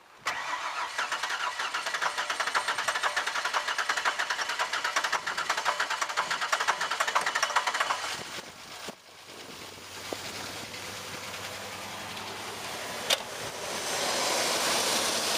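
An overheated Ford truck engine is cranked over with fast, even pulses for about eight seconds, dips near nine seconds, then runs more steadily and builds again near the end, with one sharp click about thirteen seconds in. It runs with a little clitter and clatter inside, and the owner believes the overheating has ruined it.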